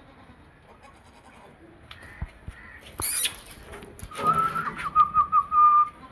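Barbari goat bleating: one long, high, wavering bleat that starts about four seconds in, preceded by a brief sharp hiss about three seconds in.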